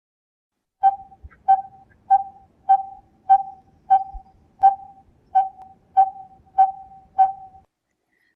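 A bird repeating one short, sharp note eleven times at about one and a half notes a second, all at the same pitch.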